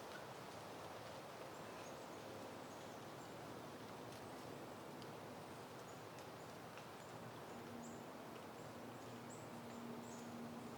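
Soft outdoor wind with a steady, faint rush, and small birds giving short, high chirps again and again. A low steady hum comes in near the end.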